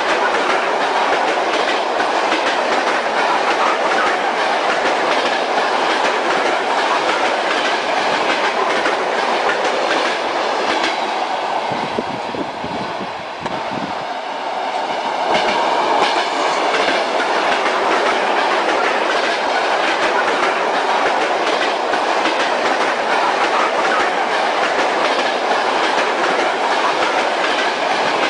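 Train wheels clattering over rail joints in a steady rhythm, heard on a moving train. About halfway through, the clatter briefly grows softer, with a faint thin ringing above it, before returning to full level.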